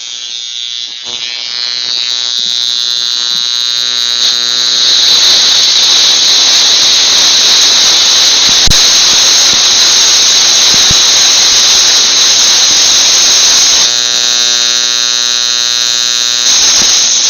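High-voltage plasma spark of a homemade water spark plug, arcing with a loud electrical buzz. Partway through, a dense hiss swells over the buzz for several seconds, with two sharp clicks in it, then fades back to the plain buzz near the end.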